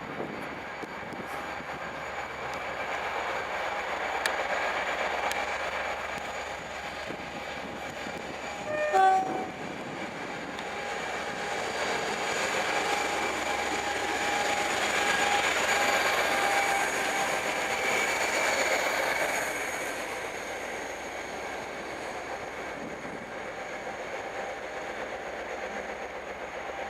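Pair of British Rail Class 57 diesel locomotives running light engine past, their EMD two-stroke V12 engines swelling as they draw level and fading as they move away. A short horn blast sounds about nine seconds in.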